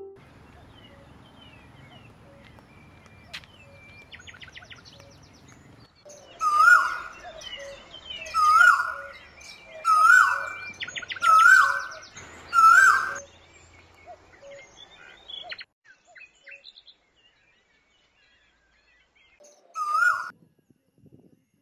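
Wild birds calling outdoors: one bird gives a loud, repeated call five times about one and a half seconds apart, then once more near the end, over fainter chirps and a light background of outdoor noise.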